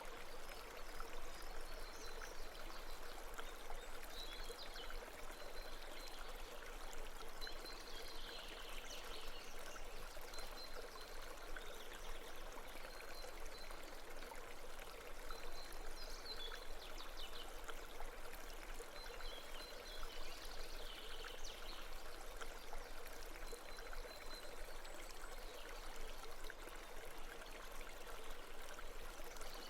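Steady running water of a babbling stream, an even rushing sound. Faint high-pitched chirp-like sounds recur over it about every four seconds.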